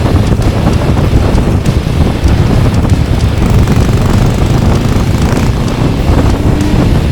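Wind buffeting an action camera's microphone while riding, over the running of a Yamaha XT600's single-cylinder engine.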